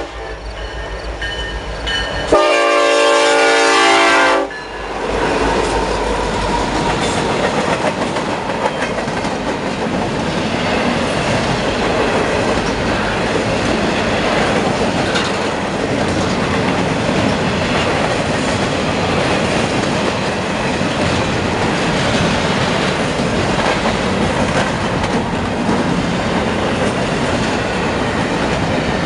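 A diesel locomotive's horn sounds one loud blast of about two seconds. The train then rolls past steadily, with wheels clattering over the rail joints.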